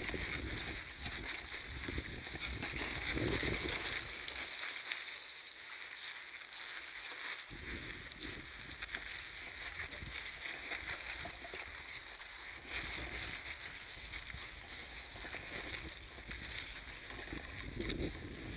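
Bicycle ride on a trail heard from a handheld phone: tyres rolling and wind rushing over the microphone, a steady hiss with uneven low rumbling that fades out for a few seconds near the middle.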